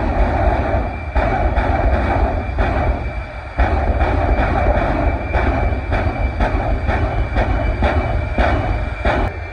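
Jet truck's turbine engine running with a steady high whine over a loud roar. Sharp bursts come about twice a second, with a brief drop in level about three and a half seconds in.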